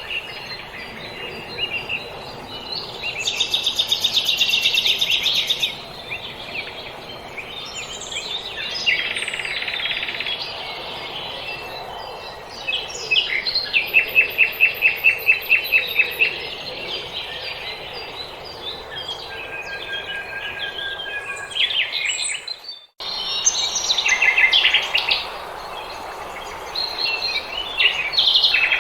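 Several small songbirds singing together in a spring dawn chorus: overlapping chirps and fast repeated trills over a steady background hiss. The sound cuts out for an instant about two thirds of the way through.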